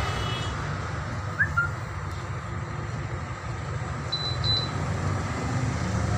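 Steady low engine rumble, like a vehicle running nearby, with a few short high beeps or chirps about a second and a half in and again around four seconds in.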